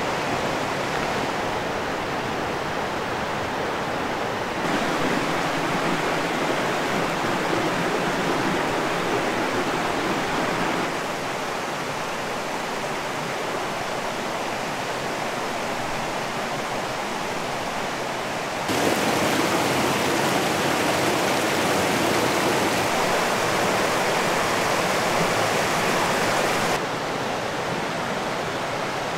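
Mountain stream water rushing in a steady wash, its loudness and tone changing abruptly four times.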